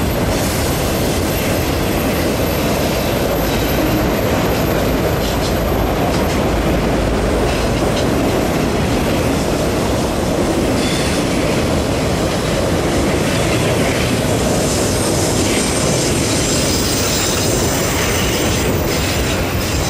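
Autorack freight cars rolling steadily past on a curve, a continuous rumble of steel wheels on the rails with occasional knocks over the rail joints. A faint high wheel squeal comes and goes.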